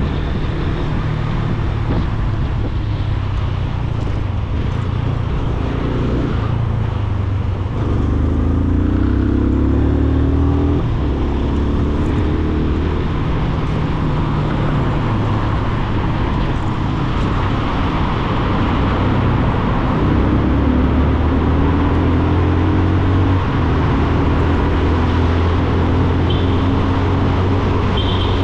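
Yamaha FZ25's single-cylinder engine running as the motorcycle rides, its note rising twice as it accelerates, about a quarter of the way in and again past the middle, over a steady rush of noise.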